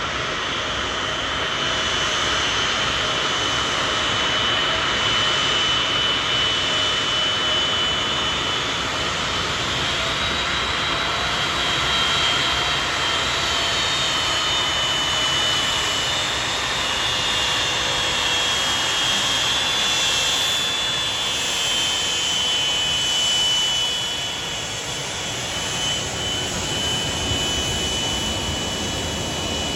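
Boeing 757-300's jet engines running steadily close by: an even rush with a high whine that wavers slowly in pitch.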